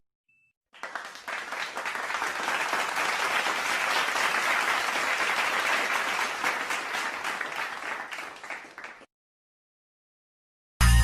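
Crowd applause sound effect: many hands clapping, starting about a second in, building to a steady peak and fading away near the end.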